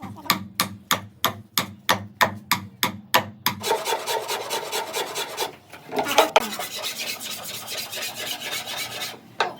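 Hand rasp or file scraping wood: quick, even strokes about four a second at first, then longer continuous rasping, broken by a short pause midway.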